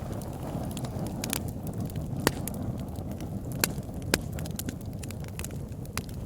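Wood fire burning in a fireplace: a steady low rumble of flames with frequent small crackles and a few sharper pops, the loudest about two, three and a half and four seconds in.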